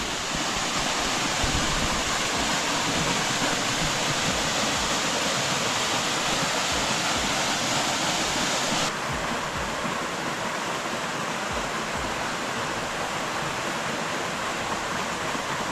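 Waterfall splashing into a pool, a steady rush of water. About nine seconds in the hiss suddenly becomes softer and duller.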